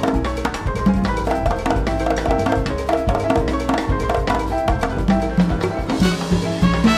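Latin chamber ensemble of congas, acoustic bass, piano, horns and string quartet playing an Afro-Latin groove, the percussion to the fore over a pulsing bass line. About six seconds in, brighter held tones fill the texture.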